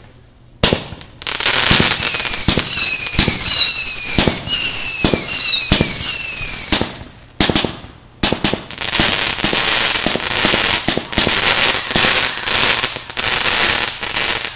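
Fireworks going off: a couple of sharp bangs, then for about six seconds a string of high whistles, each falling in pitch, over dense crackle. After a short lull, about six seconds of rapid crackling pops.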